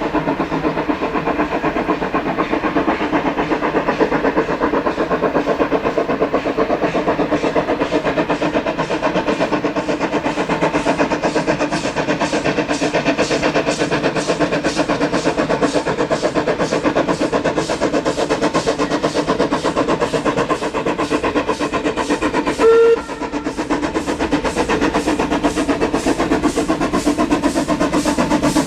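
Steam locomotive C17 974 working a train, its exhaust beats coming quicker and sharper as it gathers speed. A short whistle blast sounds about 23 seconds in.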